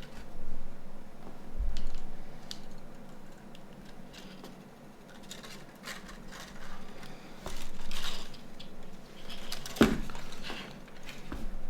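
Small plastic parts of a Nokia 9210 phone being handled and fitted during reassembly: scattered light clicks and scrapes, with one sharper click near the end.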